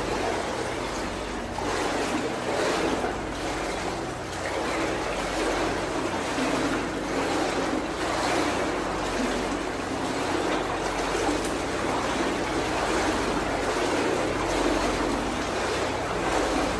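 Footsteps wading through shin-deep water in a flooded tunnel: steady, uneven sloshing and splashing, echoing off the tunnel walls.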